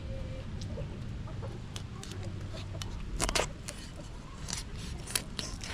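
Chickens clucking, with scattered short clicks and knocks and a louder burst about three seconds in.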